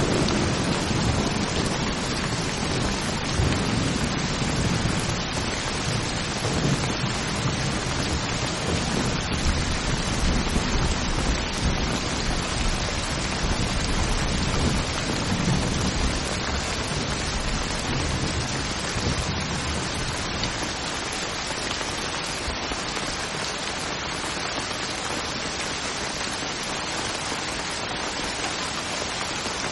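Heavy rain drumming steadily on a metal tin roof, with low rolling thunder rumbling under it that dies away about two-thirds of the way through.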